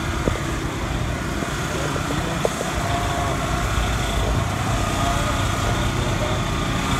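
Outdoor car show ambience: a steady low rumble, a few short clicks, and faint distant voices.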